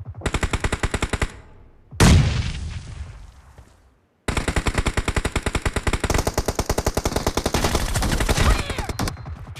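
Video game automatic gunfire. A short burst of rapid shots comes first, then one loud boom that dies away over about two seconds. From about four seconds in, a long run of rapid fire follows at roughly ten shots a second.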